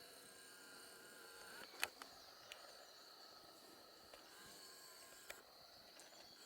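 Scaly-bellied woodpecker's bill tapping and digging at wood or bark while foraging: a few scattered sharp taps, the loudest about two seconds in. A faint, steady, high insect drone runs underneath.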